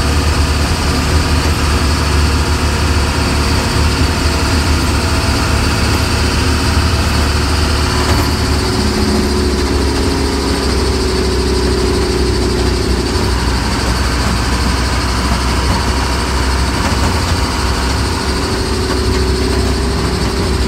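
Cummins diesel engine of a step van running steadily under way, with road and cab noise, heard from inside the cab.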